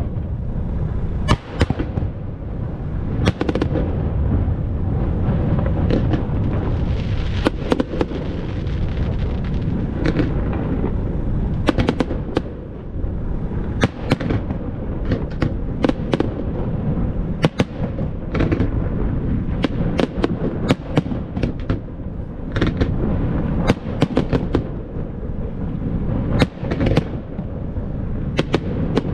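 Fireworks display: dozens of sharp bangs and cracks of shells bursting at irregular intervals, sometimes several close together, over a steady low rumble.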